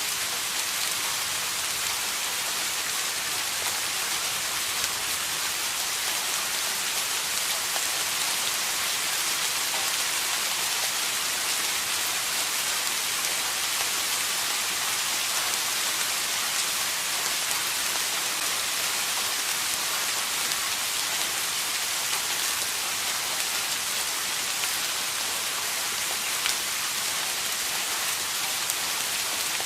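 Steady rain falling: an even, dense hiss with many small drop ticks scattered through it, unchanging throughout.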